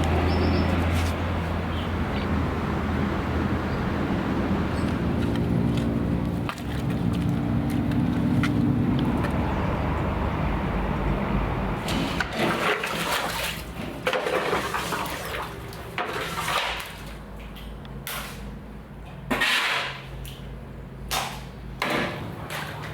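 Water rushing and gushing steadily for about twelve seconds, then breaking into uneven, separate splashing noises.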